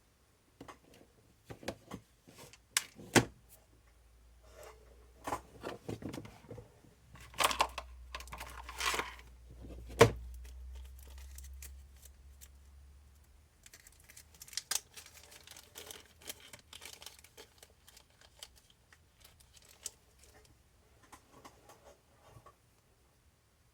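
Small parts being handled during an RC shock rebuild: scattered clicks and knocks with stretches of crinkling, like packaging or a parts bag. A low hum runs through the middle.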